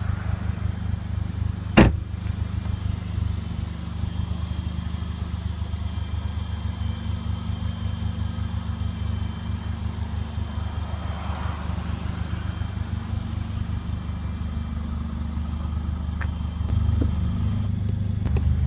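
Mercedes CLA45 AMG's turbocharged 2.0-litre four-cylinder idling: a steady low exhaust hum with an even, rapid pulse. A single sharp click sounds about two seconds in.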